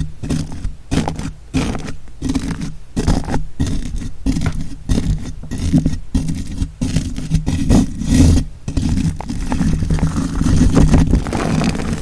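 Scratching and rubbing right up against an ASMR microphone, in quick irregular strokes with a heavy low rumble under them.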